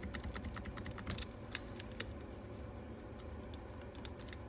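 Rapid small clicks and taps of a tool prying and wiggling an iPad Pro's battery against the adhesive that holds it in the housing, dense for the first second or so and sparser after.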